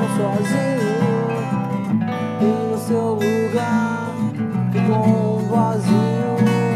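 Pop-rock band playing a song live: strummed guitar chords under a bending melody line, with no vocals yet.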